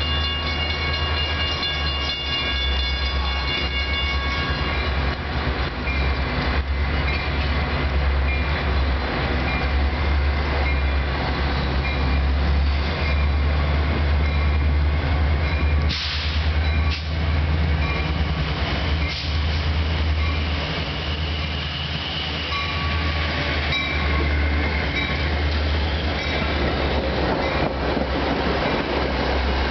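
Metra commuter train headed by an MP36PH-3S locomotive, its 16-cylinder EMD 645 diesel running as a steady low drone. For the first five seconds it comes with a chord of high steady tones, and in the last few seconds the rumble of the passing bilevel cars rises.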